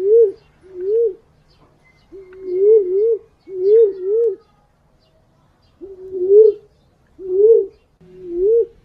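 Wild pigeon calling, the punai/walik call used as a lure: a series of about nine short, hooting whistles that each hold, then rise in pitch. Some come in quick pairs, with a pause of about a second and a half midway.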